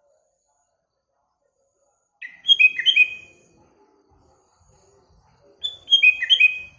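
Sooty-headed bulbul (kutilang) singing: two short phrases of quick whistled notes, about three seconds apart.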